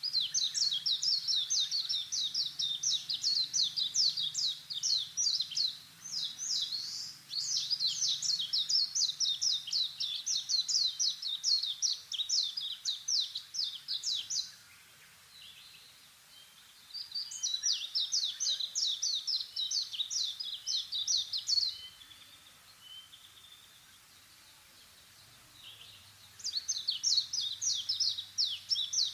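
A bird calling in long runs of rapid, high chirps, several a second, in four bouts with short pauses between them.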